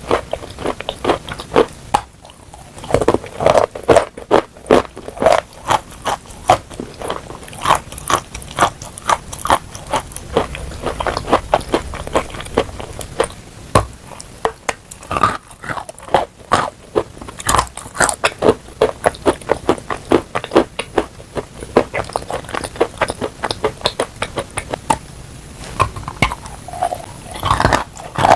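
Close-miked biting and chewing of chalk coated in clay paste: dense, irregular crunches with a few short pauses.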